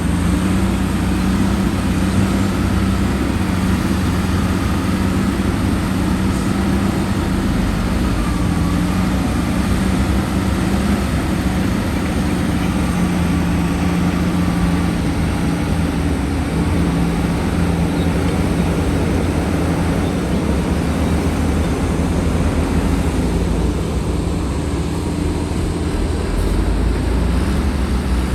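Heavy diesel engine running steadily under load, a low, even drone with small shifts in pitch and a slight dip in level a little before the end.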